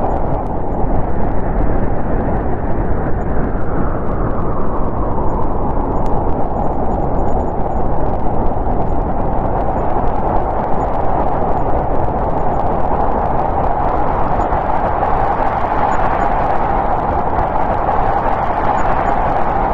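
Winter storm wind blowing steadily: a dense rush with a hollow note near its middle that drifts slowly up and down in pitch.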